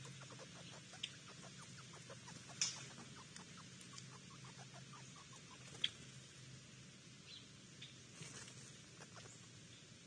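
Rapid run of small clicks or ticks, like a small animal gnawing or pecking seed at a backyard feeder, slowing and fading over the first few seconds. Two sharper clicks follow later.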